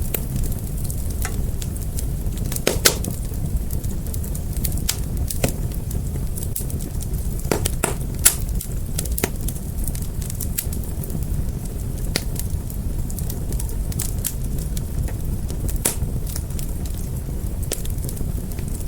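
Fire crackling: irregular sharp pops and snaps over a steady low rumble, with two louder pops about 3 and 8 seconds in.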